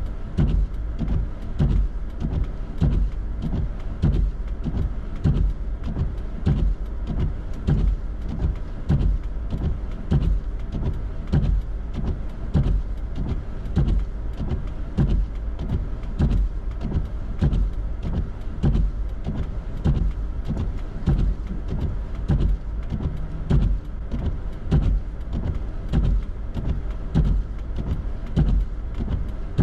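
A car driving, heard from inside, with steady low road rumble and a regular thumping about once a second.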